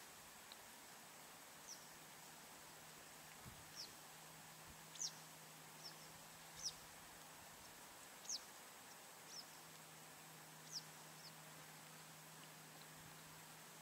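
A bird calling with short, high chirps that slide downward, about ten spaced irregularly, over a faint steady background hiss.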